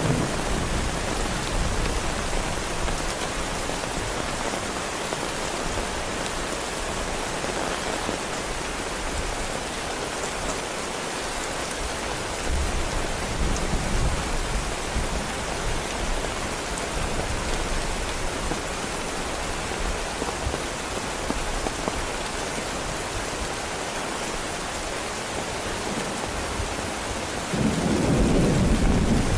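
Heavy rain falling steadily, with a low rumble of thunder about halfway through and a louder rumble of thunder starting near the end.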